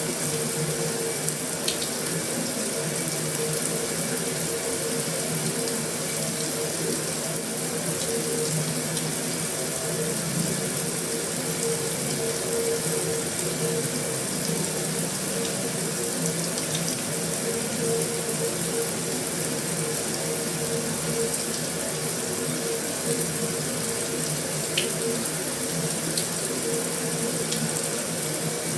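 Heavy rain falling steadily on a metal roof, an even hiss with a few sharp drop ticks standing out now and then.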